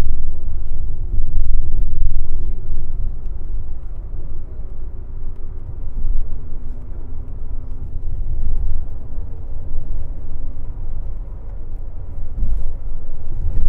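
Airport limousine bus running on the road: a steady low rumble of engine and road noise that swells and eases a little.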